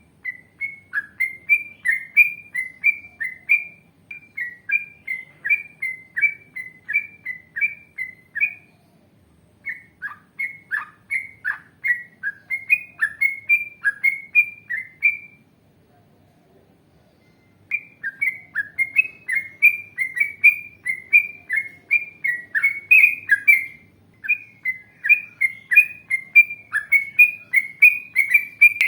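Yellow-vented bulbul (trucukan) singing long runs of bubbly, chattering notes at about two a second, breaking off briefly twice.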